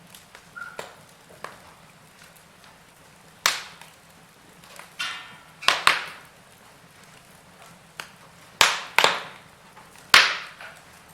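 Wood fire in a fireplace crackling, with about six sharp, loud pops in the second half and softer crackles between them.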